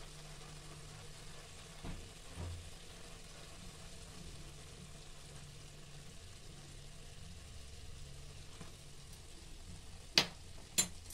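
Soya chunks and cabbage sizzling softly as they fry in a kadhai, over a low steady hum. Near the end a ladle knocks twice sharply against the pan.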